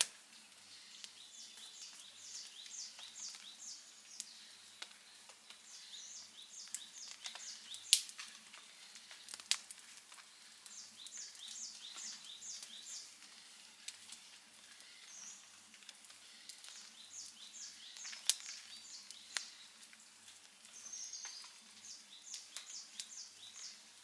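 Outdoor campfire crackling, with scattered sharp pops; the loudest comes about eight seconds in and another near eighteen seconds. Behind it a high chirping phrase of about six quick notes repeats every few seconds.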